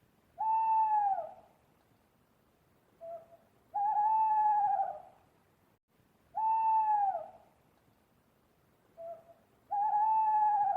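An animal's calls, most likely a bird's: four drawn-out, arching calls of about a second each, the second and fourth each led by a short note, with the sequence repeating after about six seconds.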